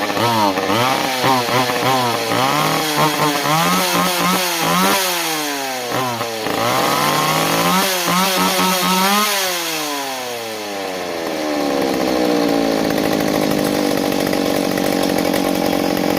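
McCulloch Pro Mac 610 two-stroke chainsaw engine running on a freshly fitted replacement carburetor, revved up and down over and over. Near ten seconds the revs drop, then the engine holds at a steady speed, running smoothly: the new carburetor is working.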